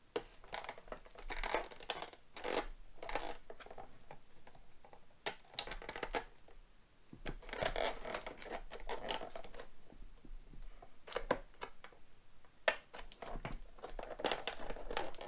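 Plastic toy packaging being handled and pulled apart: irregular crinkling, scratching and sharp clicks as an action figure is worked free of its plastic tray and ties.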